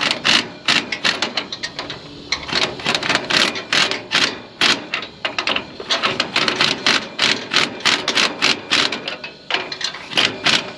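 Ratchet wrench clicking in quick, irregular bursts as nuts on an exhaust pipe clamp are tightened.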